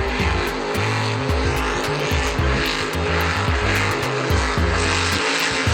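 Megalodon monster truck's engine running hard, its note rising and falling as it revs, over music.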